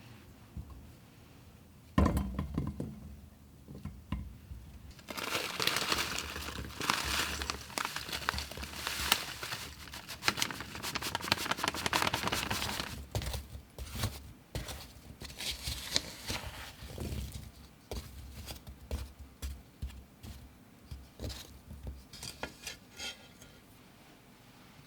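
A knock about two seconds in, then a long stretch of crinkling and rustling mixed with light clinks, thinning to scattered taps and clicks.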